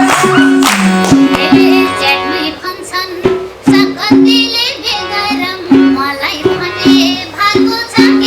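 A woman singing a Nepali folk song over a band with a steady drum beat, likely madal or tabla.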